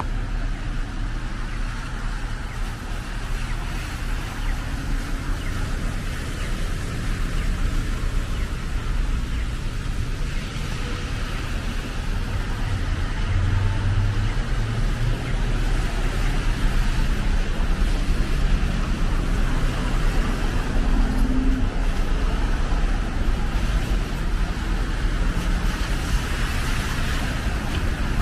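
Street traffic: cars passing with a steady wash of engine and tyre noise, growing somewhat louder in the second half.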